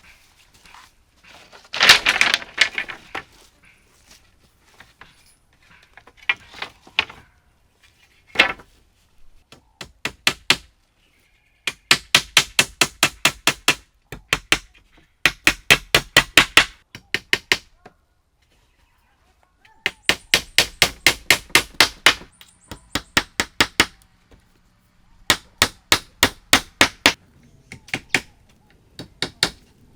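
Hammering: runs of quick, sharp blows, about five a second, broken by short pauses.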